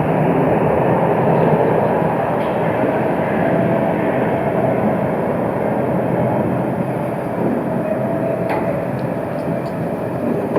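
Berlin tram running on street track: a steady rolling rumble with a faint held whine, and a single click near the end.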